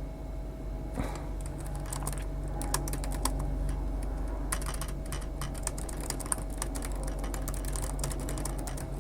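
Typing on a computer keyboard: a run of quick, irregular key clicks starting about a second in, over a steady low hum.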